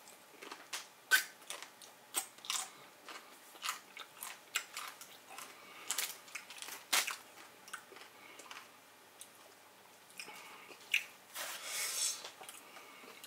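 Chewing a crunchy fried taco shell: a run of sharp, irregular crunches. Near the end comes a soft rustle of paper, from a napkin being worked between the hands.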